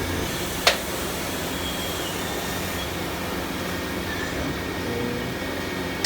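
Steady drone of factory machinery with a low hum, and one sharp knock less than a second in.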